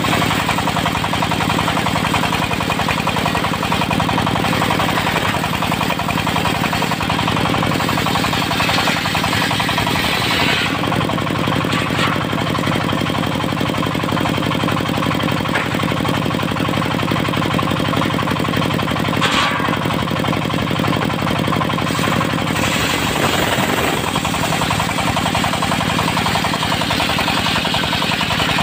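Diesel engine driving a circular-saw sawmill, running steadily with a rapid knocking beat, the saw's noise shifting briefly a few times around the middle.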